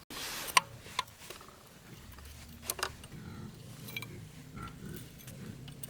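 Hand tools knocking and clicking on metal engine parts: a short rush of noise at the start, then a handful of separate sharp knocks over a low steady hum.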